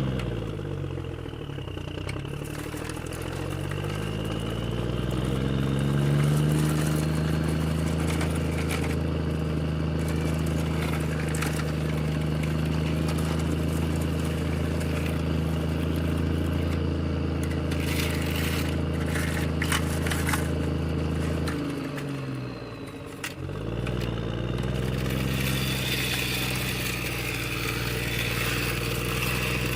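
An engine-like drone with a steady pitch that slides down and back up at the start, holds level for a long stretch, then dips away and climbs back near the end.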